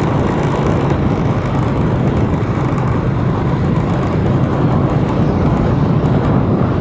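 A vehicle on the move: steady engine and road noise, an even low rumble with no breaks.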